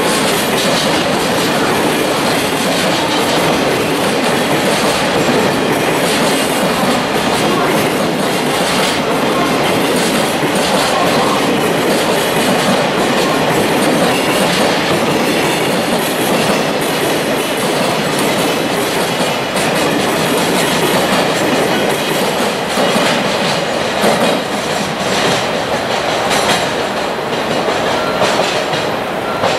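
Freight train of container flat wagons rolling past at close range, the wheels clattering steadily over the rail joints. The clatter thins out near the end as the last wagons go by.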